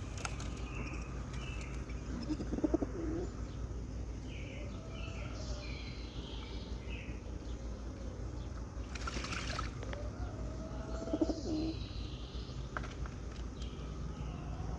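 Pigeons bathing: a brief burst of wing flapping and splashing in water about nine seconds in, and low pigeon coos twice. Higher chirps from other birds come and go.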